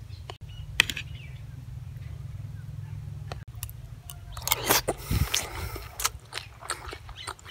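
Close-up eating of a spoonful of boiled egg in sauce: the spoon goes into the mouth, then chewing with wet clicks and smacks, starting a little past halfway through. Before that, a low steady hum with a single click about a second in.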